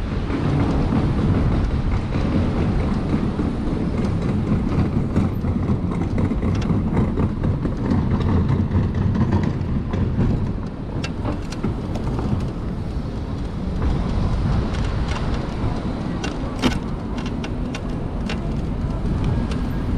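Wind rush and road noise while riding an Onyx RCR electric moped through city traffic. A few sharp knocks and rattles come in the second half.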